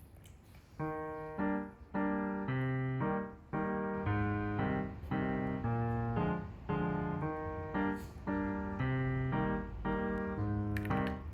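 Background piano music, a steady run of notes and chords that starts about a second in.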